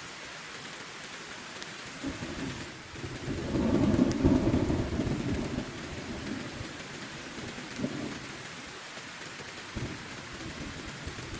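Heavy rain falling steadily while a roll of thunder rumbles in about two seconds in, builds to a loud peak, then fades over a few seconds, with a couple of fainter rumbles after.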